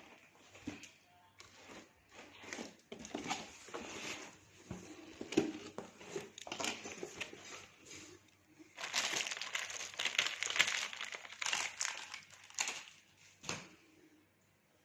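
Packaging being handled and unwrapped: irregular crinkling and rustling, densest for a few seconds past the middle, dying away near the end.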